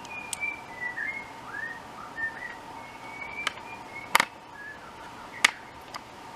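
Birdsong of clear whistled notes sliding up and down, repeated throughout, with a few sharp clicks, the loudest a little past four seconds in.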